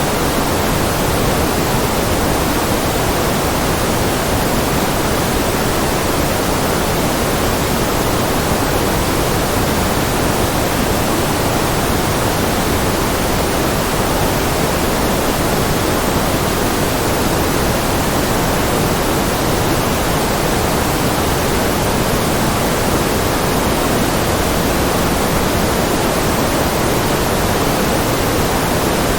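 Steady white noise: an even, unchanging hiss that fills the whole range, with no rhythm, pitch or breaks.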